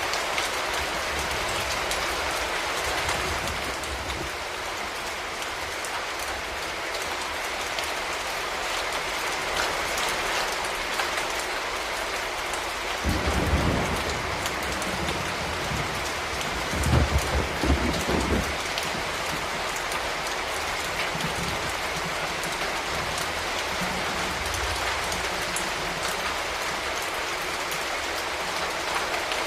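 Steady rain falling, with the patter of many individual drops. About halfway through comes a low rumble, then a second, louder one a few seconds later.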